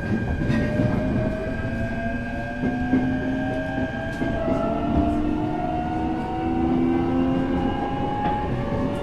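Inside an electric train as it picks up speed: the whine of the traction motors rises slowly in pitch over a steady rumble of the wheels on the track.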